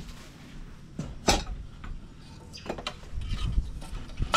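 A few light knocks and clinks of kitchen dishes and utensils being handled, the sharpest a little over a second in.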